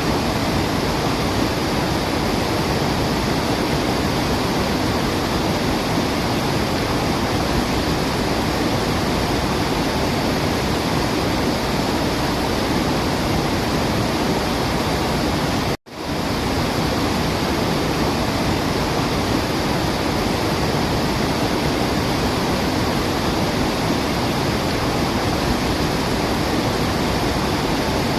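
Steady rushing of a waterfall, a dense even wash of water noise with no birdsong heard. About halfway through it cuts out for a split second and fades back in.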